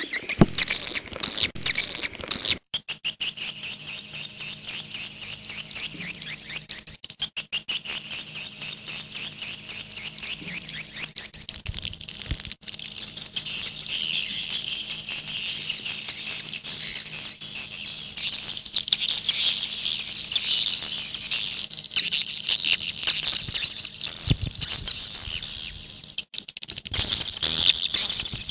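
Swiftlet calls of the 'walet jaguar' swiftlet lure sound: a dense, rapid, high-pitched chirping twitter that runs on with a few brief breaks, over a faint steady low hum.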